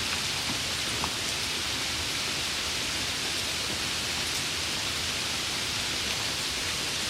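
Steady rain falling, an even hiss with one sharper drop tick about a second in.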